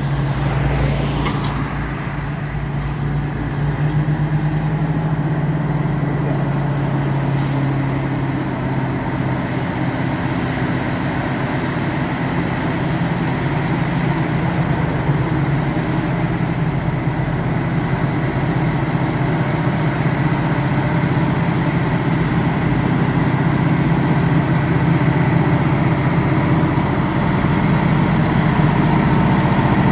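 Truck diesel engine running steadily with a low drone, growing slightly louder near the end.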